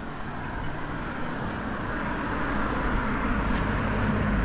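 A road vehicle approaching, its rumble and tyre noise growing steadily louder.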